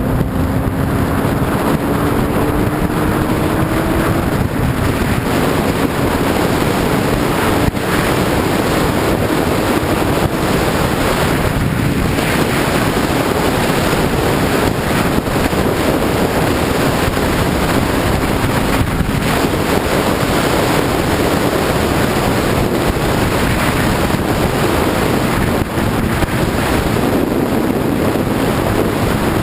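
Wind rushing over the microphone of a sport bike at road speed, with the bike's engine pitch rising under acceleration for the first few seconds before the wind drowns it out.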